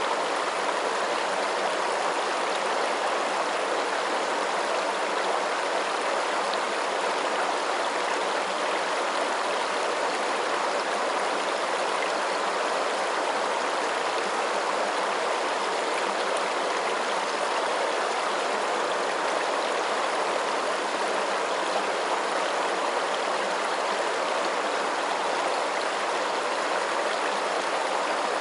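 Running water: a steady, even rush like a stream or small waterfall, with no change in level.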